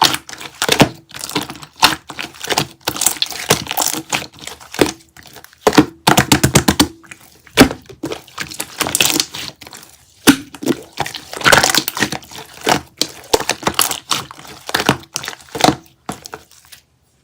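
Slime squished, pressed and poked by hand, giving a dense run of sticky clicks, pops and crackles as air pockets burst. About six seconds in there is a quick, even string of clicks, and the sound stops abruptly near the end.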